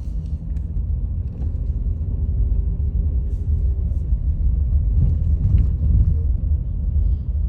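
Low, steady rumble of a car running, heard from inside the cabin.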